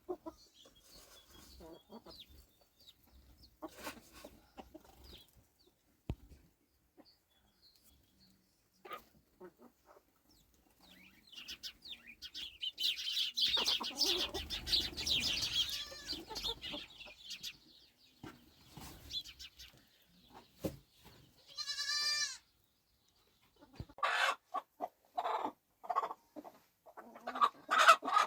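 Barnyard animals: hens clucking on and off, with a busier spell of calls midway and a single long, wavering bleat a little past two-thirds of the way through.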